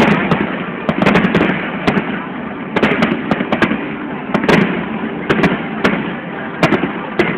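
Aerial fireworks going off in a dense barrage: many sharp cracks and bangs over a continuous rumble of bursts, with crowd noise beneath.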